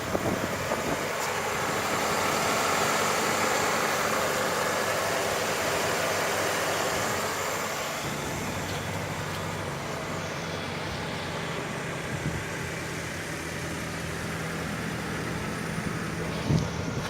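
2019 Subaru Ascent's 2.4-litre turbocharged flat-four engine idling with a steady low hum. A broader rushing noise over it swells in the first half and eases off about eight seconds in.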